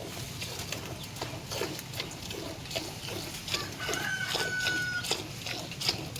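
Chickens clucking, short calls about three a second, with one drawn-out higher call for about a second in the middle.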